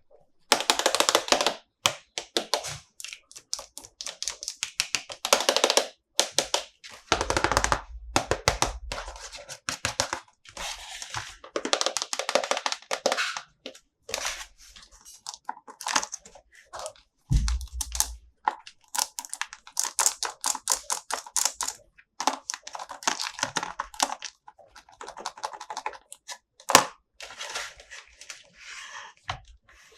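Plastic toy packaging and toys being handled close to the microphone: irregular crinkling and crackling with many rapid small clicks. Dull thumps come in around seven seconds in and again around seventeen seconds in.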